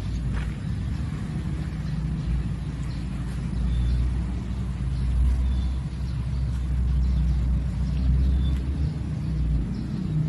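A vehicle engine running steadily, with a low hum and a deep rumble that swells in the middle.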